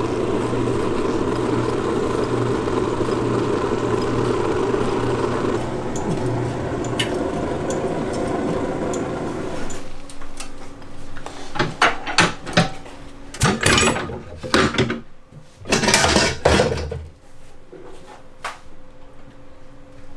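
Old puffed-grain popping machine being heated: a steady roar with a low hum under it, which stops about ten seconds in. Then a run of sharp metal knocks and clatters, with a short rushing noise near the end.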